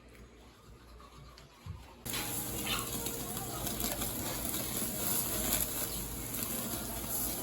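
Food sizzling and crackling in a hot pan, cutting in suddenly about two seconds in after a quiet start, then a steady hiss with small pops.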